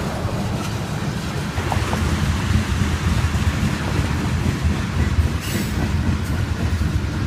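BNSF chemical freight train rolling past, a steady low rumble of wheels on rail that grows louder about a second and a half in. A short high hiss-like burst sounds about five and a half seconds in.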